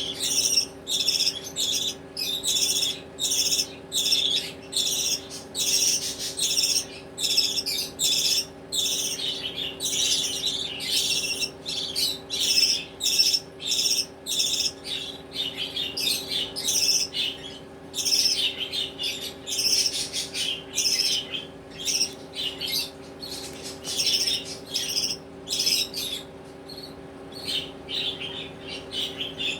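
Budgerigar chicks calling continuously with rapid, raspy chirps and squawks, about two calls a second. A steady low hum runs underneath.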